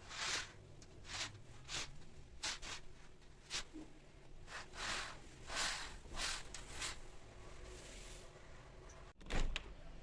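Household cleaning noises: about a dozen short swishing strokes, with one sharp knock near the end.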